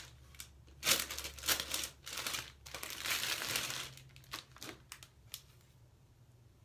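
Packaging crinkling and rustling in bursts as a hair-extension bundle is handled and taken out of its wrapping, dying down to a few small handling noises after about four seconds.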